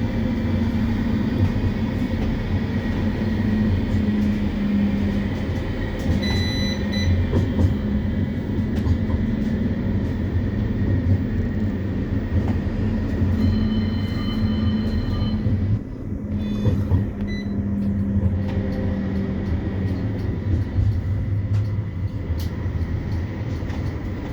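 Interior of a CAF Urbos 3 tram running between stops: a steady low rumble and hum of the motors and wheels on rail, with brief higher whines about six seconds in and again about fourteen seconds in.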